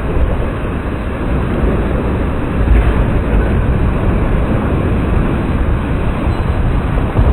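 EF0 tornado's winds, about 85 mph, blowing across the microphone: a loud, steady rushing with a heavy low rumble of wind buffeting.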